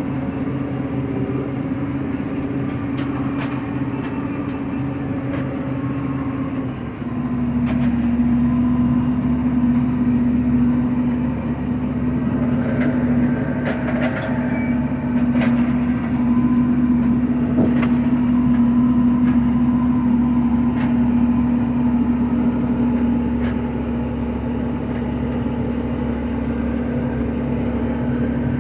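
Engine of heavy harvest machinery running steadily, with light rattles and knocks over it. About seven seconds in, the engine note shifts and the sound grows louder, as if the machine takes on more load or speed.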